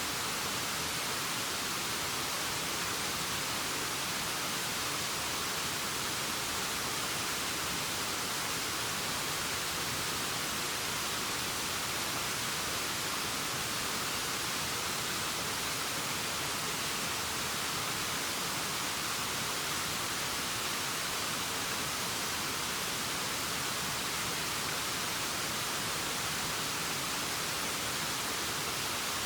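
Waterfall: a steady, unvarying rush of falling water, hiss-like and weighted toward the high end.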